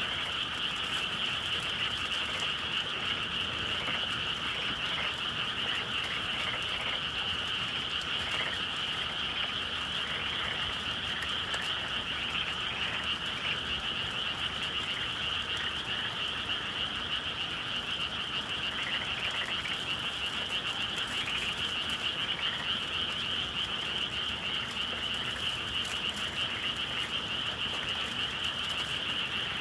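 A dense, steady chorus of many frogs calling together, a continuous high-pitched trilling with no break.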